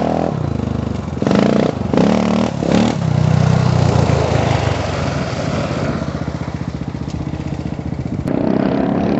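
Honda 400EX ATV's single-cylinder four-stroke engine revved in three quick blips, then held at high revs before easing to a lower steady run. It revs up again near the end.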